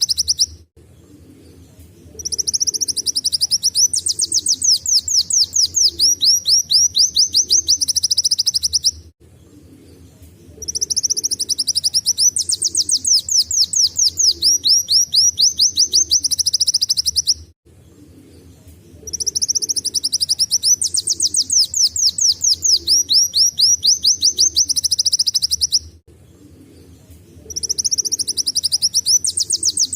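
Kolibri wulung sunbird singing a canary-like song: bouts of several seconds of rapid, high, downward-sweeping notes, broken by short pauses about every eight seconds.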